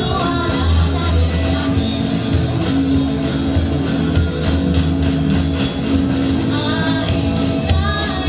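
A rock band playing a song with a singer, over a steady bass line and drums.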